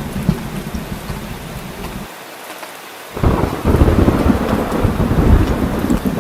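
Steady heavy rain with a low thunder rumble; the rumble briefly drops away, then about three seconds in a loud roll of thunder sets in and keeps going over the rain.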